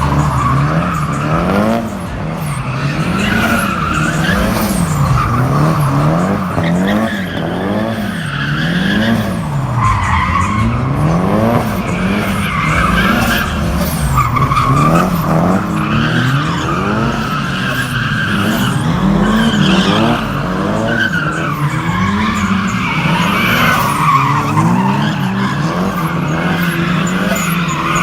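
A car spinning its tyres in a burnout, with continuous tyre squeal. The engine revs rise and fall over and over, about every second and a half.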